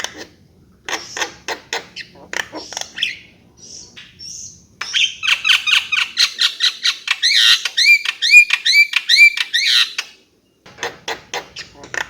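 Javan myna song: a run of rapid harsh clicking notes, a short pause, then a loud, dense stretch of chattering with quick upswept whistles from about five to ten seconds in. It stops briefly and the clicking starts again near the end.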